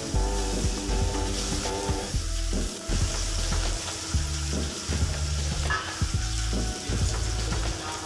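Potato sticks sizzling as they fry in hot oil in a kadai. Background music plays over it, with a stepped bass line throughout and a repeating melody in the first couple of seconds.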